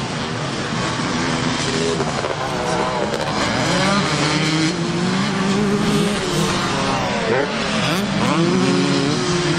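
Several classic motocross bikes racing, their engines revving up and down as they go through the gears, with rising and falling engine notes that overlap.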